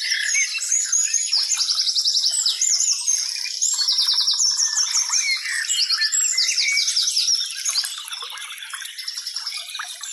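Several birds singing and chirping at once, with rapid repeated trills and short whistled notes overlapping each other, a little quieter near the end.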